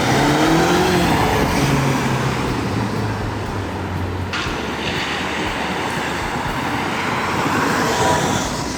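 Car and road traffic noise: a steady rush of engine and tyre sound. A tone rises and falls in the first second or so, and the sound changes abruptly a little past four seconds in.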